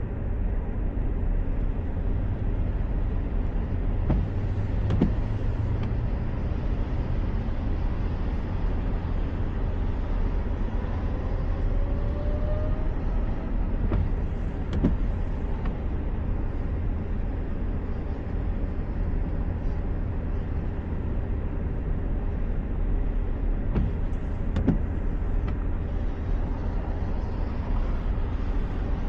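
Steady low road and engine rumble of a moving car, with a pair of faint knocks about every ten seconds and a faint rising whine about halfway through.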